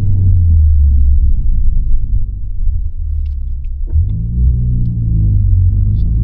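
Honda Civic FL5 Type R's turbocharged 2.0-litre four-cylinder with an HKS Legamax exhaust and aftermarket downpipe, heard from inside the cabin as a low rumble. About four seconds in there is a short click, and then the engine note starts rising in pitch as the car pulls.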